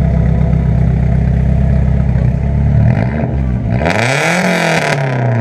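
Nissan S14 with a new ISIS Performance straight exhaust and no muffler, idling and then revved once. About three seconds in the pitch climbs to a peak and falls back toward idle near the end. Really loud.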